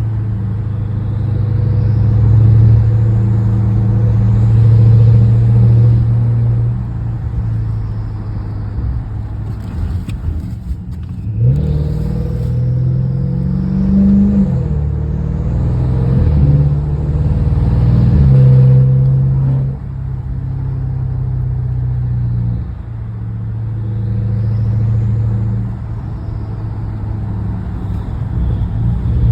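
2016 BMW 550i's twin-turbo 4.4-litre N63TU V8 through a 3-inch straight-pipe exhaust, cruising on light throttle with a steady low drone. About ten seconds in the note briefly drops away, then climbs in pitch for a few seconds before settling back to the steady drone.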